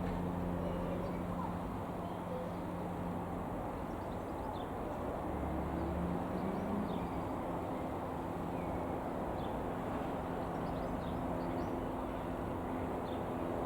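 Piper PA-28-180 Cherokee's four-cylinder Lycoming piston engine running steadily, a low even drone whose pitch shifts slightly about halfway through, with faint bird chirps over it.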